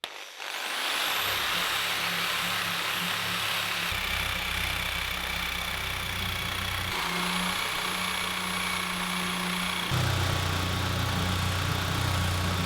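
Electric workshop power tool running steadily, a low motor hum under a high whine, changing abruptly a few times as the sound jumps between takes.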